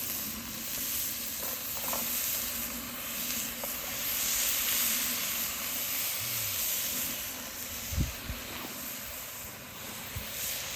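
Chunks of stewing beef sizzling steadily as they sear in hot oil, with a low thump about eight seconds in.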